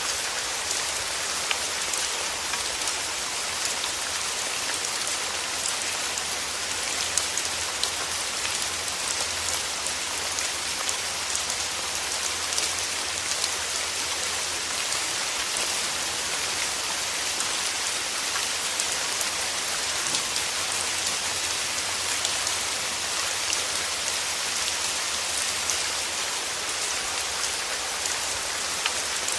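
Steady rain falling, a dense hiss with many small drops pattering on a surface, even throughout.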